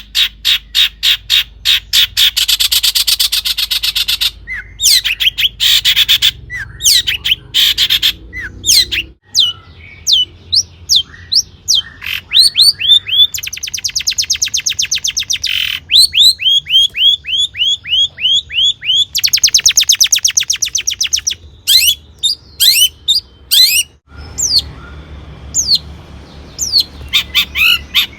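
Long-tailed shrike (cendet) singing a loud, busy song: fast runs of rapid chattering notes alternating with series of sharp, down-slurred whistled notes. A low hum sits underneath, and the background changes abruptly twice where separate recordings are joined.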